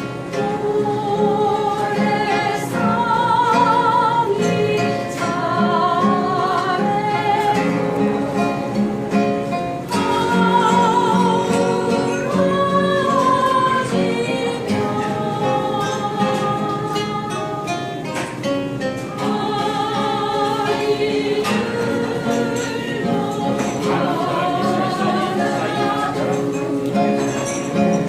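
Singing with vibrato over instrumental accompaniment, likely guitar.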